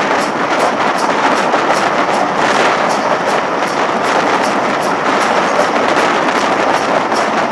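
Steam-hauled passenger train running at speed, heard from a carriage window: a steady rush of air and running noise with a faint quick beat of about three a second.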